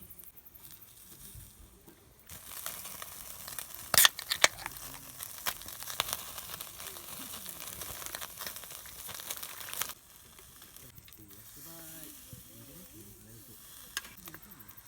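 Food sizzling and spattering in a hot pan, with a few loud pops. The sizzling starts suddenly about two seconds in and cuts off about ten seconds in.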